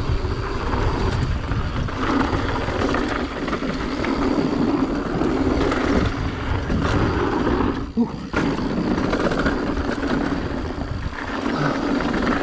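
Wind buffeting the rider's camera microphone over mountain bike tyres rumbling and the bike rattling on a rough dirt trail at speed, with a brief lull and a sharp knock about eight seconds in.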